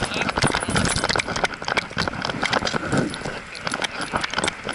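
Rapid, irregular clicks and jingling rattles, typical of quick footfalls with something small and metal jangling along.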